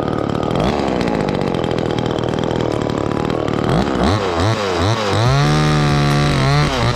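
Chainsaw running, steady at first, then from about four seconds in its revs dip and rise again and again, with a short steady stretch at speed: the saw working through the back cut of a tree held under rope tension.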